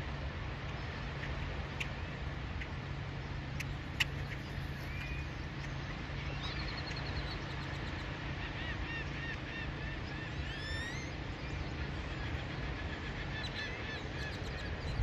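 Birds calling: many short repeated calls start about six seconds in, with a rising whistle near the eleventh second, over a steady low hum.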